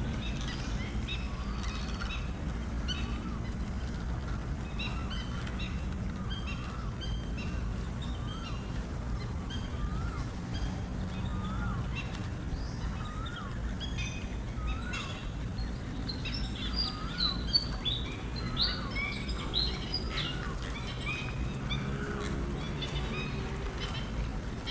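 Several wild birds calling and chirping, one repeating a short rising-and-falling call about once a second while others chirp higher and busier, over a steady low rumble.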